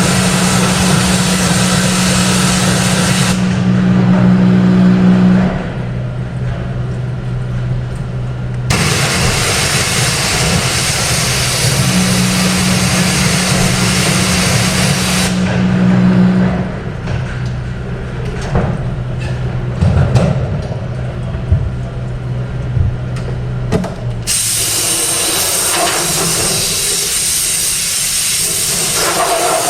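Electric pressure washer spraying the engine bay in long hissing bursts, its motor humming as it runs and stopping between bursts, with scattered clicks and knocks in the pauses.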